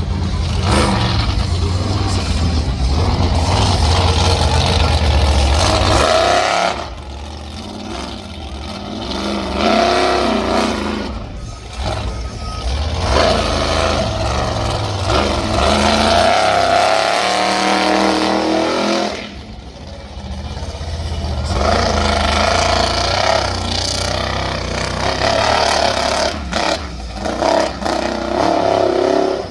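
Monster truck engine running loud and revving, its pitch rising and falling, with brief quieter lulls about a quarter of the way in and again around two-thirds of the way through.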